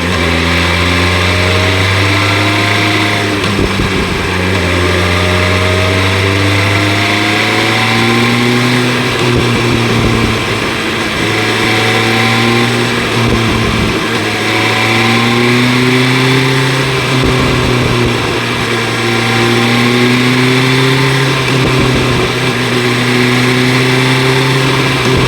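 BMW S1000 RR inline-four with an Akrapovic exhaust running under way. The engine note climbs slowly several times and drops back as the bike accelerates and eases off, over a steady rush of wind.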